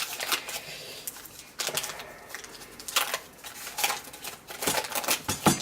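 Knife cutting hard, fridge-cold coconut oil into chunks, making irregular sharp taps and clicks, with a louder knock near the end.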